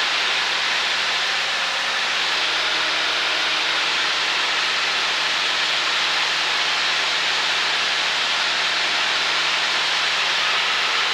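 Cessna 152's four-cylinder Lycoming engine and propeller running at steady power, heard inside the cockpit under a constant rush of airflow noise.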